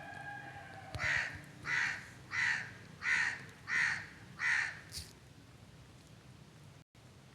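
A crow cawing six times in a quick, even series, about one and a half harsh caws a second, followed by a short sharp click.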